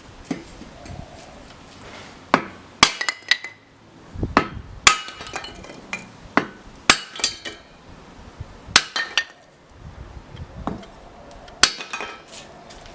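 Hammer striking metal in irregular blows, about a dozen, each with a short metallic ring.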